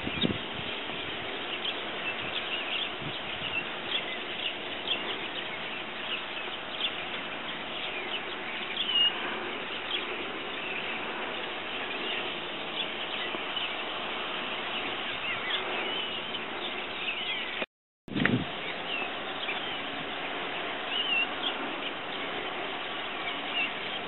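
A flock of small birds chirping and calling, many short high chirps overlapping over a steady hiss. The sound cuts out completely for a moment about three-quarters of the way through.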